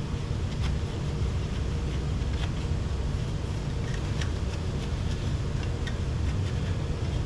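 Steady low background hum, such as a fan or ventilation, with a few faint light clicks of parts being handled.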